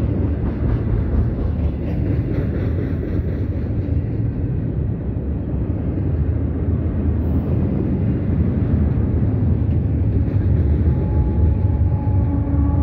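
Double-stack container freight train rolling past: a steady low rumble and clatter of steel wheels on rail. Near the end, a steady droning hum joins in as a mid-train diesel locomotive comes alongside.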